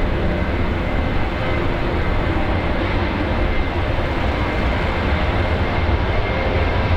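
Jet airliner engines running, a loud steady rushing noise with faint high whining tones.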